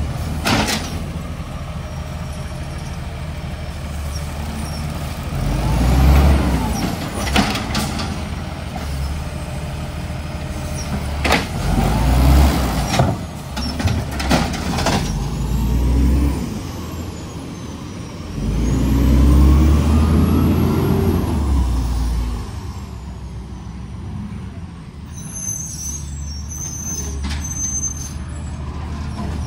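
Garbage truck engine idling and revving up several times, with short hisses of the air brakes in between.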